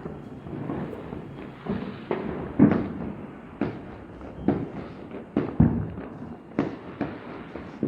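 Diwali firecrackers going off: a string of sharp bangs, roughly one a second and irregular, over a continuous crackling hiss.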